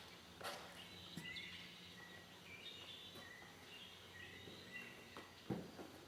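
Quiet background with a faint steady hum, short faint high chirps, and a couple of soft knocks.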